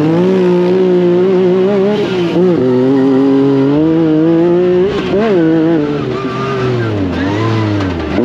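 Off-road vehicle engine running hard under changing throttle, its pitch holding steady and then dipping and climbing again several times.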